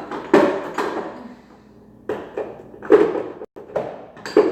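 A spoon stirring sauce in a pot, with about seven short knocks and scrapes against the pot.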